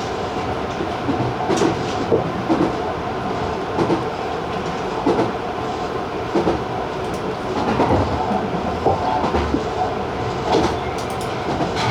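Tobu 50090-series electric train running at speed, a steady rolling rumble and hum with the wheels clicking over rail joints every second or so.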